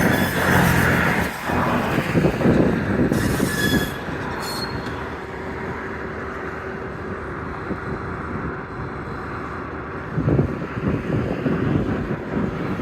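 Freight cars rolling on the rails of a rail yard, with brief high-pitched wheel squeals in the first few seconds and a steady low hum through the middle.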